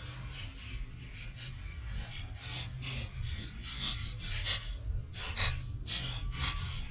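Irregular scraping and rubbing with small clicks and knocks: a die-cast toy monster truck being pushed and handled along the outdoor track.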